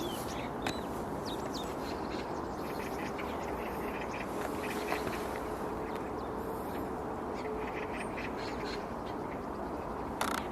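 Short, repeated bird calls over a steady background rush, with one sharp sound shortly before the end.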